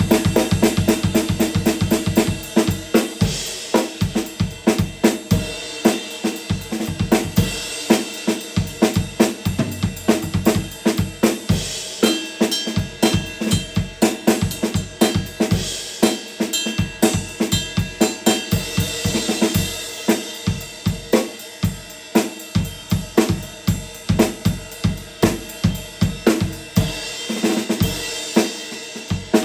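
Zildjian A Custom 20-inch Projection ride cymbal played in a steady drum-kit groove, its ride strokes ringing over snare and bass drum hits.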